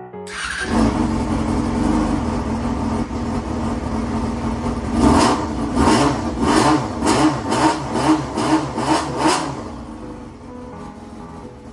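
Honda Jade 250 motorcycle's inline-four engine running, with a quick run of throttle blips, about two to three a second, in the middle, then dropping back to a steady idle near the end.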